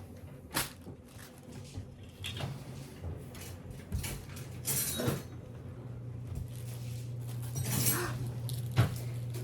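Kitchen handling sounds: scattered knocks, clinks and rustles of dishes and cupboards while noodles are being made, with a steady low hum starting a little past halfway.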